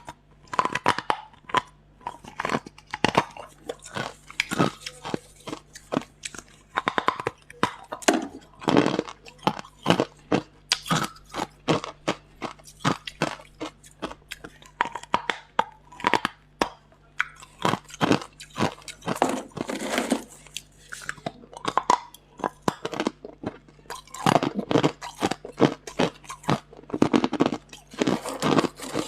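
Hard ice being bitten and chewed close to the microphone: sharp, loud crunches in quick clusters, with short pauses between bites.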